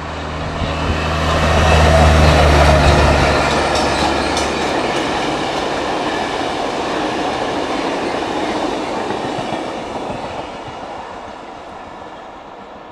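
A work train passing: a yellow diesel track maintenance machine drones low for the first few seconds as it goes by. A string of empty flat wagons follows, rolling past with wheels clacking over the rail joints, and the sound fades steadily as the train draws away.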